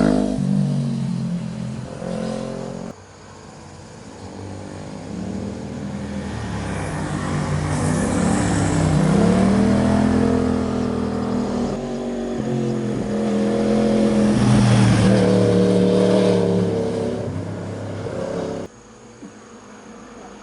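Sport motorcycles passing one after another, engines revving and changing pitch as they accelerate and roll off through the bends. There are abrupt cuts about three seconds in and again near the end, where the sound drops much quieter.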